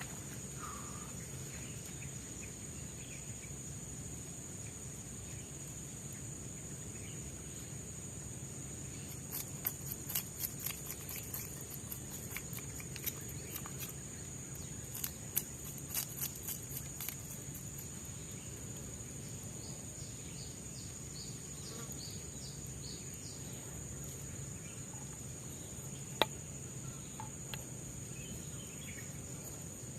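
Steady high-pitched drone of forest insects such as crickets. A cluster of short clicks and knocks comes through the middle, and one sharp click near the end.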